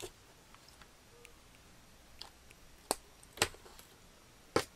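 A few light, sharp clicks and taps from handling small plastic model kit parts and tools on a work desk, three clearer ones past the middle and near the end.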